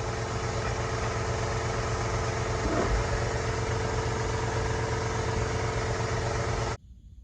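Engine idling steadily, cut off abruptly near the end.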